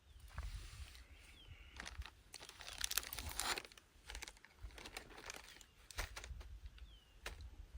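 Rustling and crinkling of material being handled, with scattered light clicks and crunches, busiest about three seconds in, over a low rumble.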